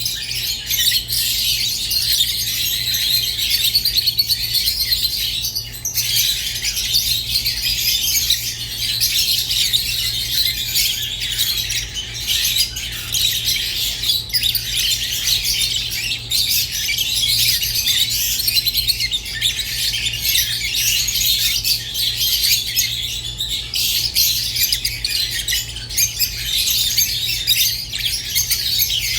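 Rosy-faced and Fischer's lovebirds chattering and chirping continuously, a dense, unbroken mix of high-pitched twittering with occasional squawks.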